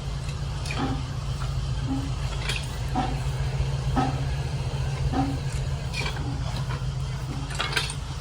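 Antique engine running slowly with a regular knocking beat, about two a second, over a steady low drone.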